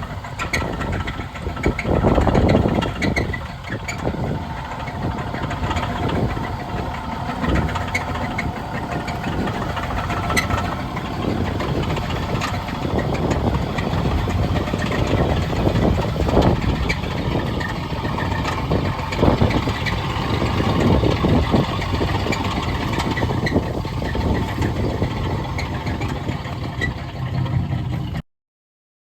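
Buick car engine running, with an uneven, rumbling noise that stops abruptly near the end.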